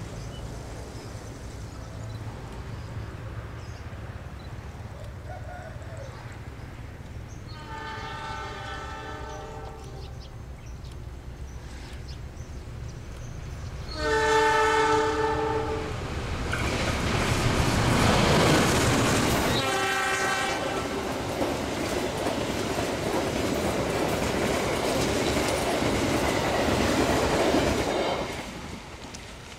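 Diesel locomotive of an Indonesian passenger train rumbling as it approaches, then sounding its horn three times: a fainter blast about eight seconds in, a loud one about fourteen seconds in and a short one about twenty seconds in. The train then passes, its wheels running loudly on the rails, and the noise drops away near the end.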